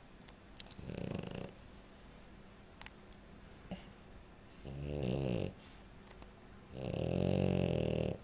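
French Bulldog snoring in its sleep: three snores a few seconds apart, each about a second long, the last one the longest and loudest.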